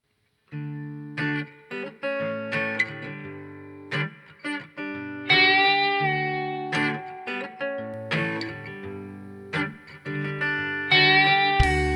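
Guitar intro of a live band song: chords played and left to ring, each slowly fading, with a heavier low end joining near the end as the bass and drums come in.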